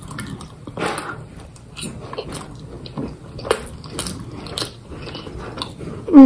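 Chewing and biting sounds of eating soft penne pasta in rosé sauce, with irregular small clicks and mouth noises.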